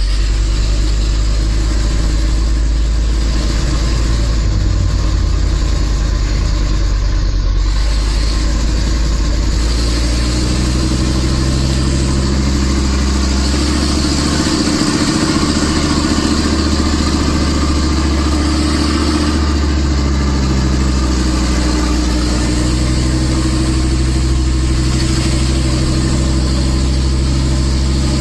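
Nissan Diesel RH10 V10 diesel engine of a Big Thumb truck running hard under a 25-tonne load on a hill climb. It is a loud, steady, deep drone, and its pitch shifts a few times in the second half.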